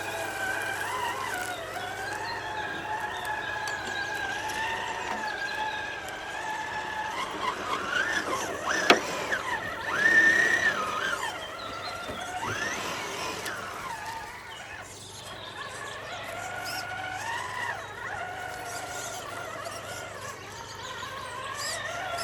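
1/10-scale RC rock crawler's electric motor and geared drivetrain whining, the pitch rising and falling as the throttle is worked over rocks. A sharp knock about nine seconds in, then a louder, higher whine as the crawler powers up.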